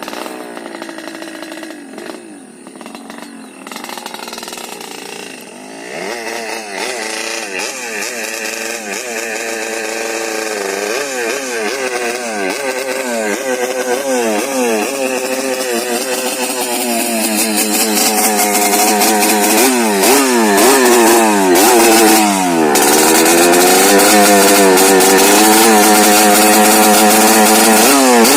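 Yamaha RX-King's two-stroke single-cylinder engine through a racing under-belly (kolong) exhaust, revved again and again, its pitch rising and falling with each blip. The revs climb and it gets louder in the second half.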